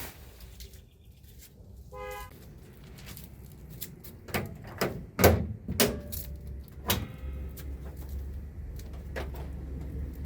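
Car sounds: a short electronic beep, then a run of sharp clunks like doors or latches being shut, then a low steady rumble like an engine idling.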